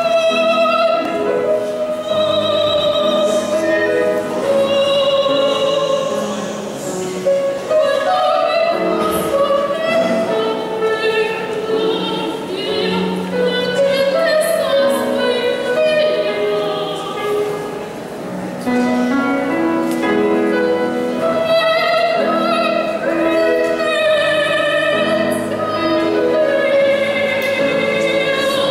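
Choir singing a classical piece in several parts, with long held notes.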